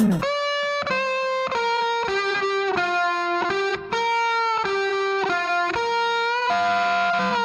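Music: a solo electric guitar plays a melody of held notes, a short break between the louder dance track with drums on either side.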